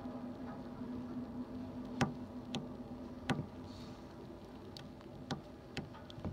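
Freight train running at a distance: a steady low hum fades over the first two seconds, then about six sharp clicks and knocks come at irregular intervals.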